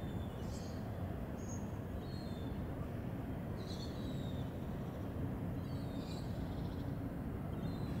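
Steady low background rumble with short, high bird chirps a handful of times, each well under a second.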